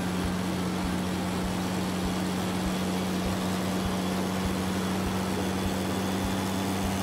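Steady engine hum, like a truck engine running at idle: one constant low tone with a faint regular low pulse under it, starting just before the truck moves off and stopping near the end.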